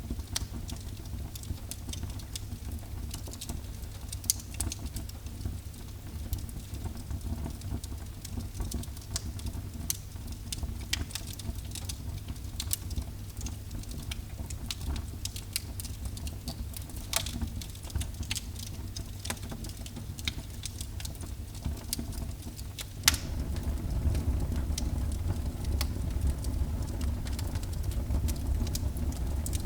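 Wood fire burning in a fireplace: scattered crackles and pops over a steady low rumble. A sharper pop comes about three quarters of the way through, after which the rumble grows louder.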